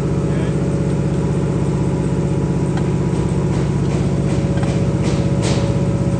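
Steady low machine drone running evenly throughout, with a few light knocks from parts being handled in the second half.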